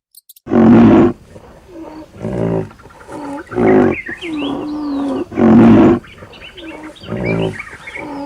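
A big cat roaring: three loud, deep roars, about half a second in, near the middle and about two seconds later, with quieter grunting calls between them.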